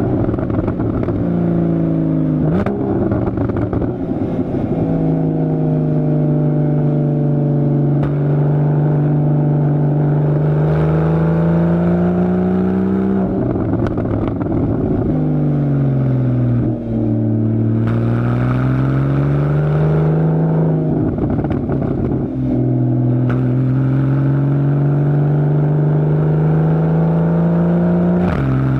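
2015 Porsche Boxster's 2.7 L flat-six through a Fabspeed Maxflo aftermarket exhaust, pulling hard under acceleration with the pitch climbing steadily over long stretches. The pitch drops back at gear changes and when it lifts off, with rough, crackly bursts around those moments.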